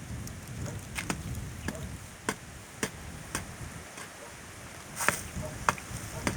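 Irregular sharp snaps and clicks, roughly one every half second, with a louder one about five seconds in, over a low wind rumble.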